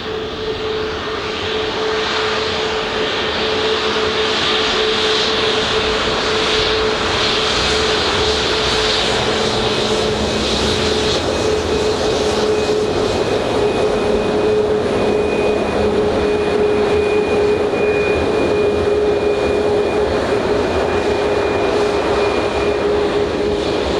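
Boeing 737-8200 MAX's CFM LEAP-1B jet engines running loud, with a steady whine under a dense rush of noise. The sound swells over the first few seconds, then holds steady.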